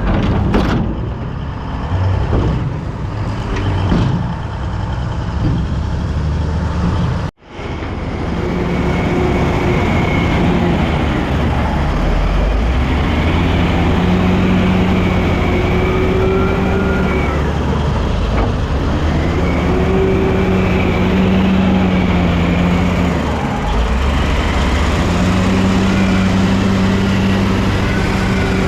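Bulldozer's diesel engine working under load, its revs rising and falling every few seconds. Before a sudden break about seven seconds in, there are scattered knocks and clanks over the engine.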